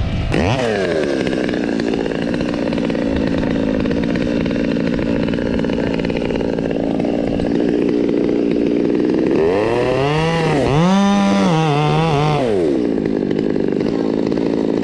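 Stihl 200T top-handle two-stroke chainsaw idling, its pitch dropping back to idle right at the start. About two-thirds of the way through it revs up for about three seconds with the pitch wavering, then falls back to a steady idle.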